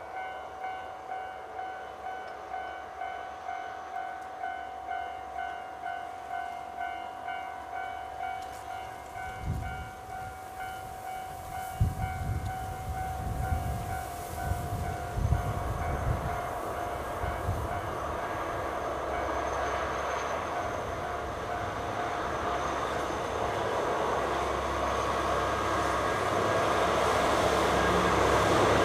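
Level crossing warning bell ringing in an even repeating ding-ding. About a third of the way in, a diesel train's low rumble and heavy thumps come in and grow steadily louder as the train approaches.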